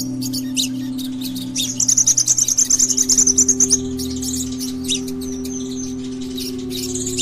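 Sunbird (Indonesian 'kolibri') singing a run of sharp, high-pitched chirps, with a fast trill of repeated notes lasting about two seconds starting near two seconds in. A steady low hum runs underneath.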